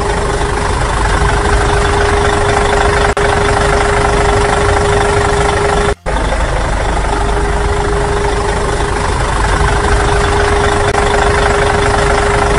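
Steady engine idling sound effect, a heavy machine's running noise with a constant hum, dubbed over hand-pushed plastic toys. It drops out for an instant about six seconds in and then resumes.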